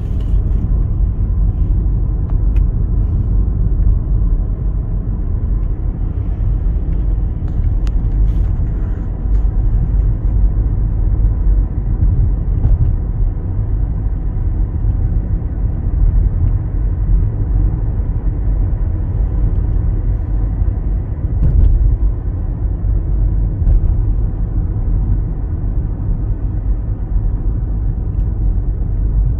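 Steady low rumble of a car driving along a road, engine and tyre noise as heard while riding in it.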